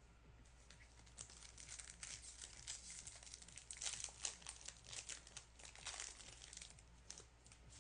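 Wrapper of a trading-card pack crinkling as it is handled and torn open, a quick run of short, faint crackles.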